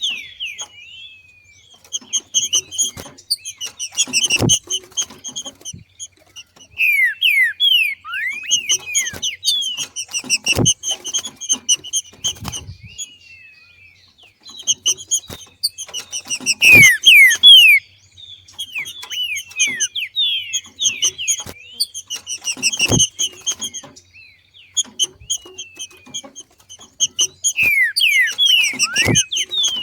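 Female green-winged saltator (trinca-ferro) giving its 'macheado' call, a breeding-season call: bursts of rapid, high chattering notes mixed with quick downward-sliding whistles, repeated every few seconds. Sharp knocks come among the bursts about every six seconds.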